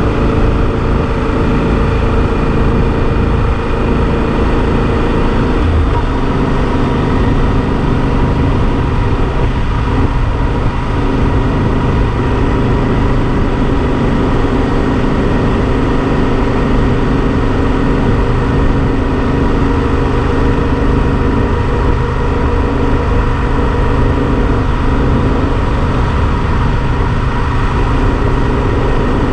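Yamaha Super Ténéré XT1200's parallel-twin engine running steadily while riding, with rushing noise over the microphone; the engine note shifts about six seconds in.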